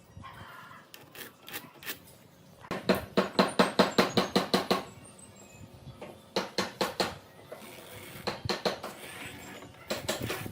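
Rapid sharp taps in several bursts, about five or six a second, the longest run lasting a couple of seconds near the middle.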